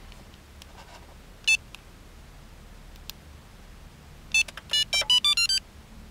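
Electronic beeps from a Viper 5904V two-way remote-start transmitter: one short beep, then a quick run of beeps stepping up in pitch, confirming the remote start command just before the engine cranks.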